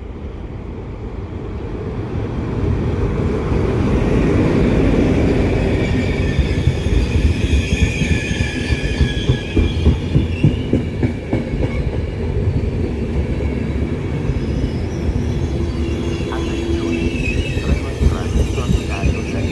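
A locomotive-hauled Intercity train of passenger coaches passing on the rails: the rumble swells to its loudest about four seconds in, then the coaches roll by with rapid rhythmic clacks of wheels over rail joints and a faint high wheel squeal.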